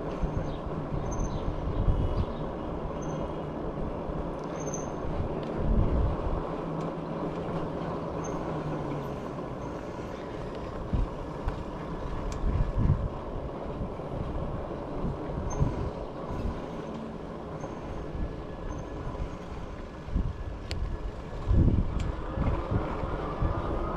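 Wind buffeting the microphone and rolling noise of a moving e-bike, with irregular low gusts and thumps and a faint steady hum that fades out about nine seconds in.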